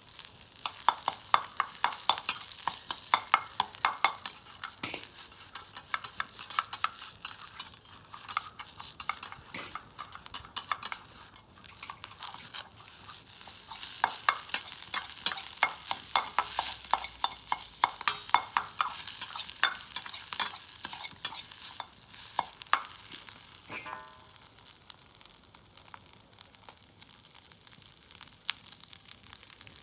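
Food sizzling in an iron wok while a metal spatula or ladle scrapes and clanks against the pan. The strikes come in quick runs of three or four a second, busiest at the start and again about halfway through.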